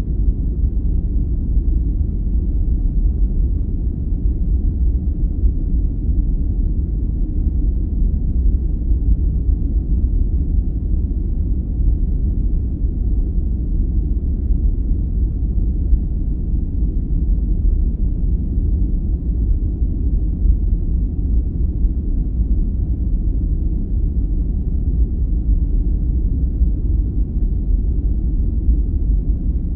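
Steady, unchanging deep rumbling noise from a sleep-aid noise track, its energy in the bass and little above about 2 kHz, so it is closer to brown noise than to a hissy white noise.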